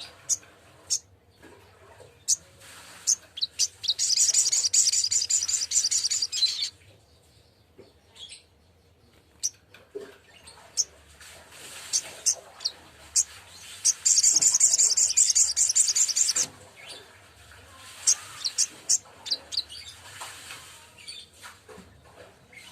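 A sogok ontong bird singing: scattered sharp, high chirps, broken by two long, loud, rapid trills, one about four seconds in and one about fourteen seconds in.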